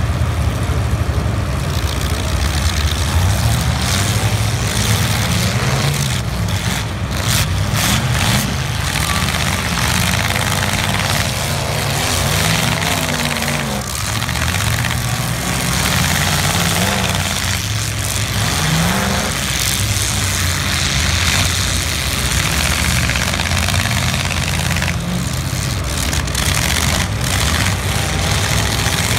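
Several demolition derby cars' engines revving hard, rising and falling in pitch as the cars ram one another, with a few sharp bangs of collisions.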